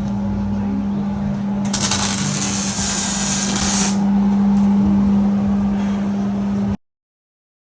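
Muffler-shop machine noise: a steady hum with a loud hissing burst of about two seconds near the start, cutting off suddenly near the end.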